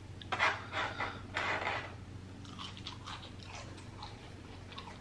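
Close-miked chewing of crispy French fries: a few loud crunchy bites in the first two seconds, then softer chewing.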